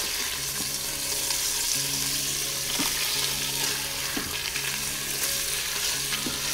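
Tofu cubes sizzling in hot oil in the Instant Pot's stainless steel inner pot as a spatula stirs them around, a steady frying hiss with a few light clicks of the spatula.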